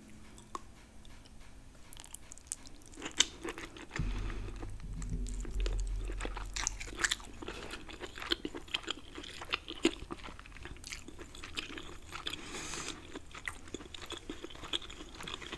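Close-miked wet chewing, biting and lip smacking on crab leg meat coated in creamy alfredo sauce, with many small clicks and smacks. A low rumble starts suddenly about four seconds in and fades over the next few seconds.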